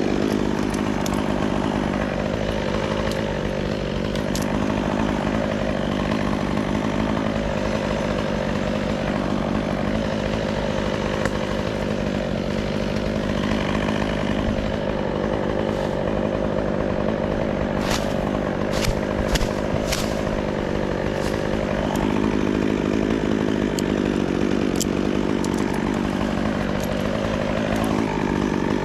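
Two-stroke chainsaw engine running at a steady speed, with a few sharp clicks about two-thirds of the way through.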